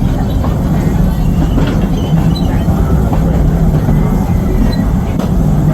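Narrow-gauge amusement-park train running along its track: a steady low rumble.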